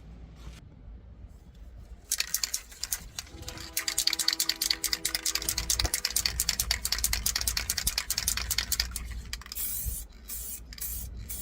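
Aerosol spray-paint can being shaken, its mixing ball rattling rapidly for several seconds, followed near the end by short hissing bursts of spray paint being applied to the engine.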